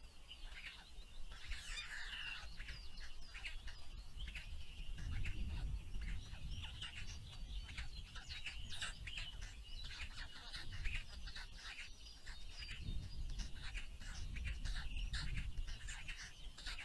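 Small birds chirping busily in rapid, overlapping short calls, with a low rumble underneath.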